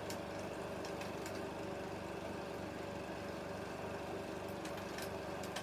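16mm film projector running steadily, its motor and film mechanism giving a continuous mechanical whir with a steady tone, and a few faint clicks near the start and near the end.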